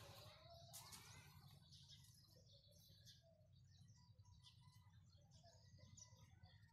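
Faint, scattered chirps of small birds over a low steady hum.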